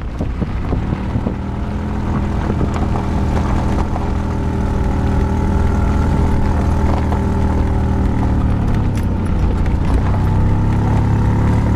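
Car engine and road noise heard from inside the cabin while driving on a dirt road: a steady engine hum.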